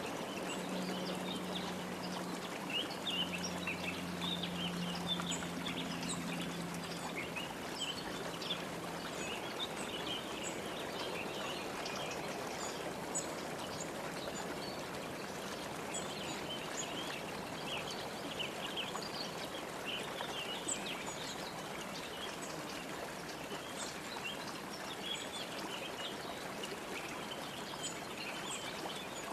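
Many small birds chirping in quick, short notes over a steady hiss like flowing water. A faint low hum fades out in the first third.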